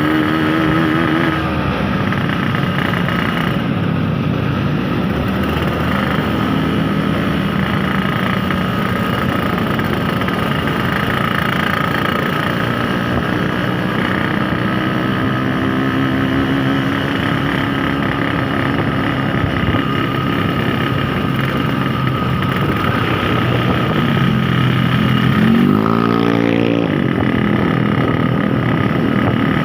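Yamaha RX-King's 135 cc two-stroke single-cylinder engine running on the road, its pitch shifting with the throttle and climbing steeply in a sharp rev near the end.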